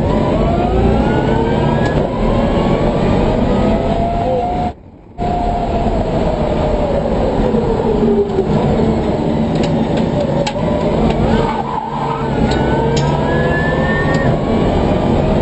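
Electric motor whine from the converted BMW M3 race car's twin WarP 11-inch DC motors, rising in pitch as the car accelerates, falling as it slows through the middle, then rising again near the end, over steady road and tyre noise. The sound cuts out briefly about five seconds in.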